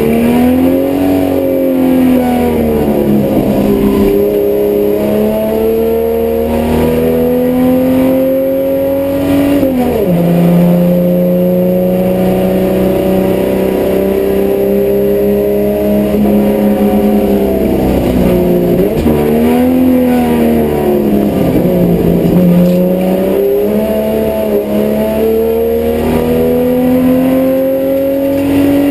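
Holden HQ race car's six-cylinder engine heard from inside the cabin, pulling hard with its note climbing slowly under load. The revs drop sharply at a gear change about ten seconds in and again near the end, and fall and pick up again through corners in between.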